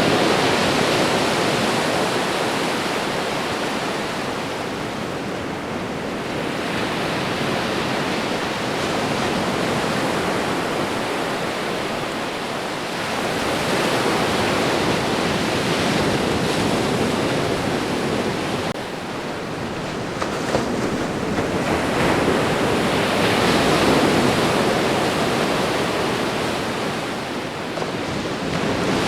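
Ocean surf: waves breaking and washing onto the shore as a continuous rush that swells and falls back in slow surges, about four of them.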